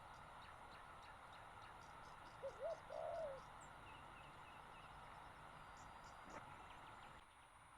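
A bird calling: two short rising-and-falling notes, then one longer note, about two and a half seconds in, with a few faint high chirps after. Under it runs a faint steady hiss that drops away near the end.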